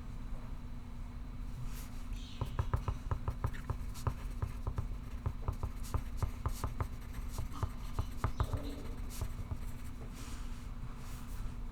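Pencil writing on paper: a quick run of short scratchy strokes, about four or five a second, from about two seconds in until near the end, over a steady low hum.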